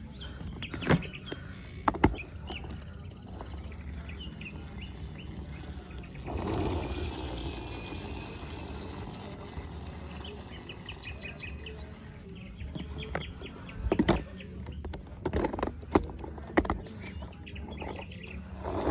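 A few sharp knocks and clacks over steady low background noise, with faint quick bird chirps in between.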